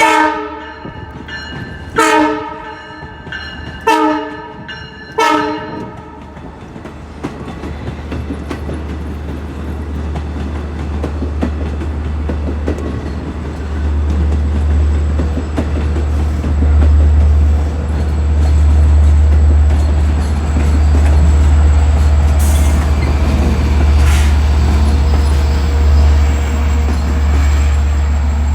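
Train horn sounding four short blasts, several notes at once, in the first six seconds, followed by the train running past: a low rumble and wheel noise on the rails that builds steadily and stays loud to the end.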